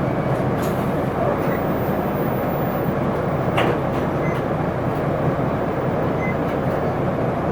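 Interior running sound of an Isuzu Erga city bus on the move: steady diesel engine hum and road noise, with a few light rattles from the cabin, one about halfway through.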